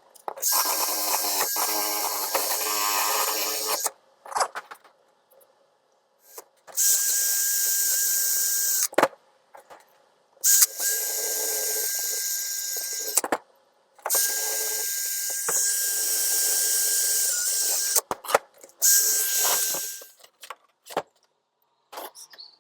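A small power tool run in short bursts, about five runs of one to four seconds each, with clicks and knocks in the pauses between.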